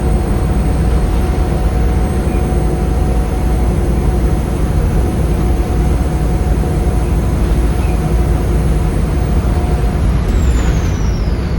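Volvo D7C 7.3-litre six-cylinder diesel of a Volvo B7RLE bus running steadily under load, with a steady drone and a constant mid-pitched tone. About ten seconds in the tone stops and a high turbo whistle falls in pitch, then steadies.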